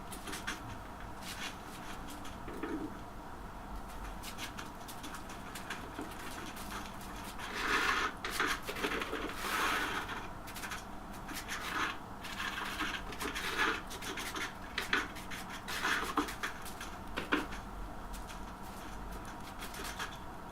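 Irregular scraping and rubbing strokes from tiling work on porcelain stoneware, with scattered light clicks; the busiest run of scraping comes about a third of the way in.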